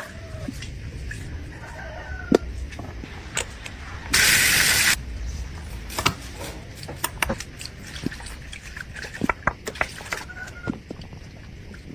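Light clicks and taps of small tools, with a hiss about a second long just after four seconds in.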